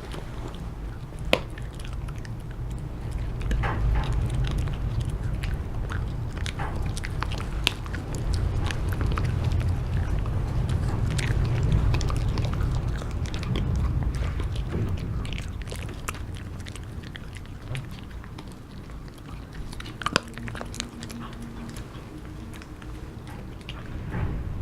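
A dog biting and chewing a hard treat, with many sharp crunches, over a low rumble that swells and then fades away.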